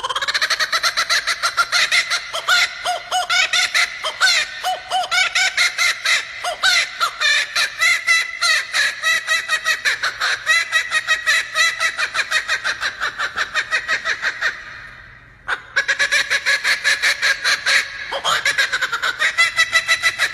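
Male laughing kookaburra giving its laughing call: a long run of rapid, repeated cackling notes that fades out about fifteen seconds in, then a second bout starts after a short pause.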